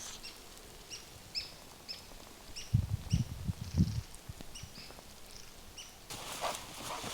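A small bird repeating a short, high chirp about twice a second. A few low thuds come about three seconds in, and footsteps start near the end.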